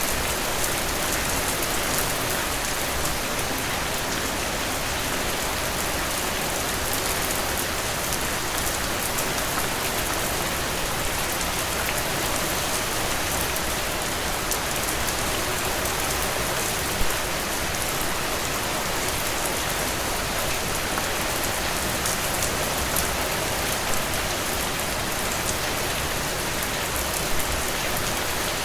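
Heavy rain falling steadily in a dense downpour, with close drops spattering on a surface and a few slightly louder spatters now and then.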